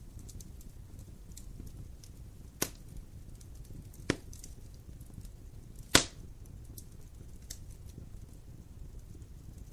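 Burning wood fire crackling over a low rumble of flames, with scattered small ticks and three sharp pops from the burning logs, the last, about six seconds in, the loudest.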